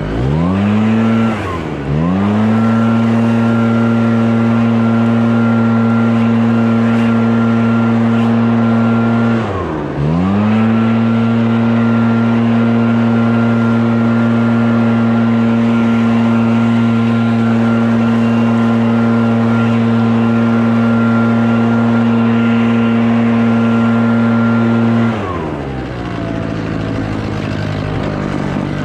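Scag Windstorm stand-on leaf blower's engine running at full throttle. It revs up, dips and recovers twice near the start and about ten seconds in, then holds a steady high speed. Near the end it drops to a lower speed and revs back up.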